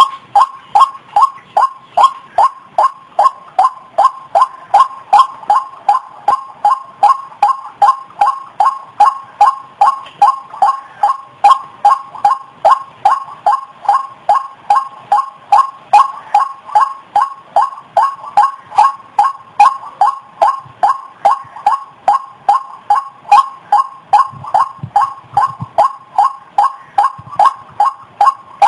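White-breasted waterhen calling: a steady run of short, evenly repeated call notes, about two to three a second.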